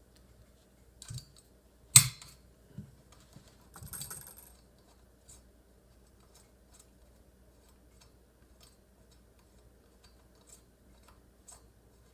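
Shotgun parts and tools being handled while a side saddle shell carrier is taken off the gun: a few clicks and knocks, the loudest a sharp click about two seconds in, a brief scraping rattle about four seconds in, then faint scattered ticks.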